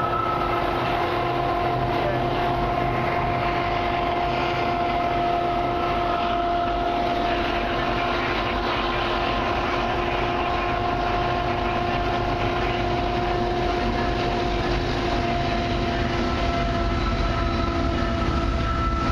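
Diesel-led CN freight train approaching, its low rumble building toward the end, under a steady high hum of several held tones.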